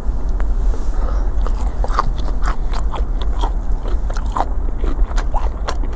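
Someone biting and chewing spicy chicken feet: irregular crunchy clicks, several a second, over a steady low rumble.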